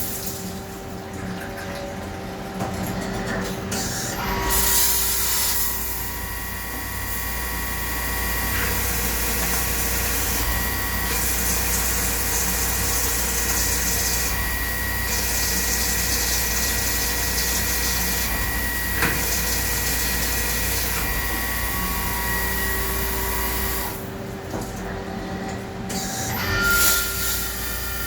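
CNC turn-mill lathe machining a part: steady running with whining tones over a hiss. The hiss drops away briefly twice, near the start and near the end, and a new steady tone comes in during the last seconds.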